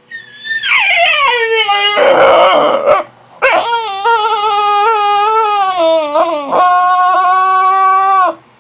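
Puppy howling in protest at being woken from a nap: a high cry that slides down in pitch, a rough, harsh stretch, then after a brief break one long, steady howl lasting about five seconds.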